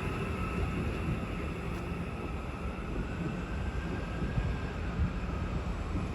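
Train running through the station: a steady low rumble with a faint whine that rises slowly in pitch in the second half.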